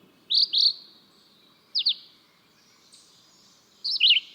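Red-eyed vireo singing: three short phrases of quick slurred whistled notes, each separated by a pause of about a second.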